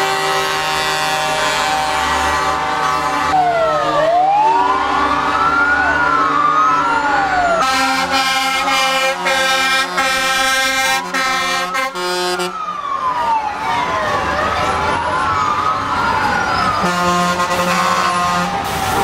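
Truck air horns blaring in sustained chords, joined about three seconds in by a wailing siren that rises and falls every couple of seconds; the horns drop out, return about eight seconds in, and blare again near the end over the siren.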